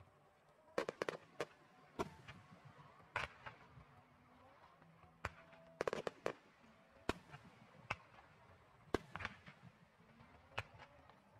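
Aerial firework shells bursting in a display: about a dozen sharp booms at irregular spacing, several coming in quick clusters.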